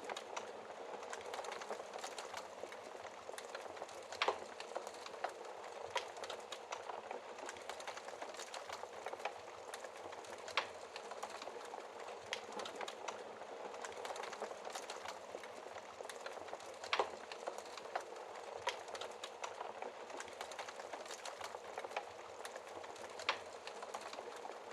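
Wood fire burning in a fireplace behind a glass shield: a steady soft hiss with irregular crackles and occasional sharp pops.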